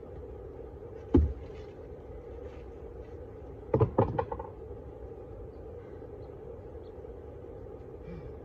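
Steady hum of a honeybee colony, broken by a sharp knock about a second in and a quick run of three or four knocks around four seconds in.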